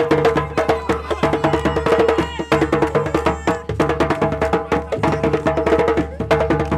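Traditional Malian drumming: hand drums with skin heads played in a fast, dense rhythm of sharp, even strokes.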